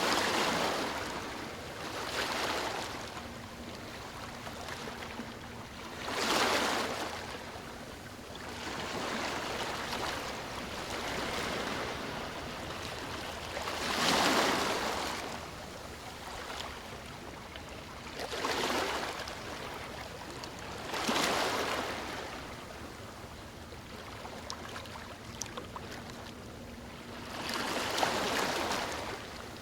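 Sea waves breaking and washing on the shore, swelling and falling back in irregular surges every few seconds, the strongest about halfway through.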